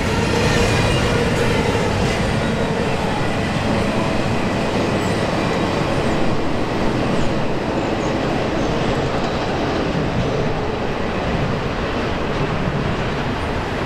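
Double-stack intermodal container cars rolling past on steel rails: a steady heavy rumble of wheels on track, with faint wheel squeal in the first couple of seconds, carrying on as the end of the freight train moves away.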